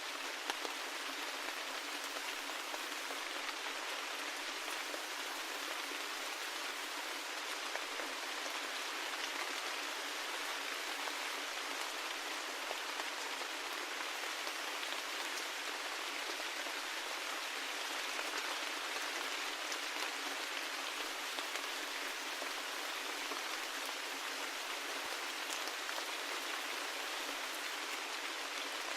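Steady rain: an even hiss of falling drops, with individual drops ticking faintly through it.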